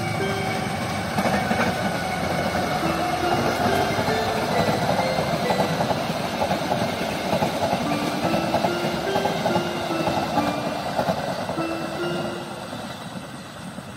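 Passenger train hauled by a CC 203 diesel-electric locomotive rolling past at close range: a steady rumble and rattle of wheels on rail that dies away over the last couple of seconds as the coaches move off. A slow melody of single chiming notes plays over it.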